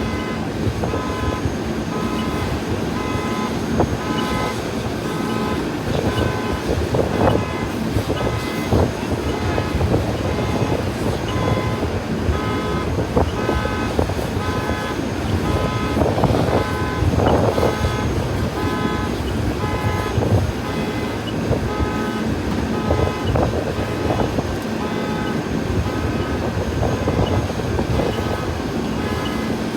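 Vehicle engine running steadily with a repeating electronic beep sounding over it throughout, with a few brief louder swells of noise.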